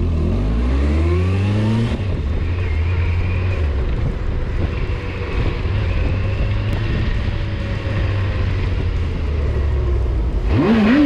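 Motorcycle engine accelerating with rising pitch, then running steadily at speed with wind rush; about ten seconds in it revs up again.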